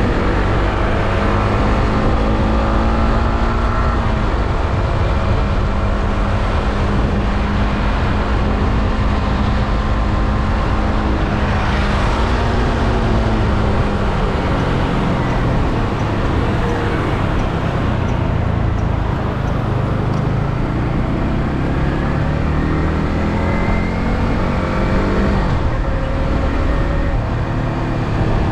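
Yamaha R15M's single-cylinder engine through the stock exhaust, heard on the move with heavy wind noise: it holds a steady engine note, eases off and slows through the middle, then accelerates again near the end with a gear change. A brief whoosh sounds about twelve seconds in.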